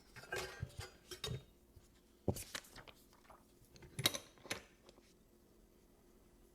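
Small clicks and knocks of hands handling things at a repair bench: light clatter in the first second or so, then sharper taps about two seconds in and again about four seconds in.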